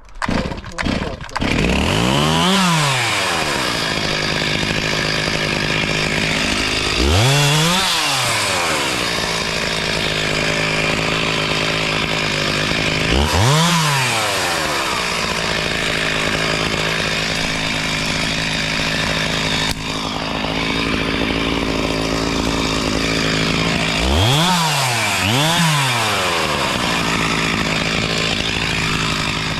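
Two-stroke chainsaw starting up about a second in, then running steadily with brief throttle revs that rise and fall in pitch, five in all, the last two close together.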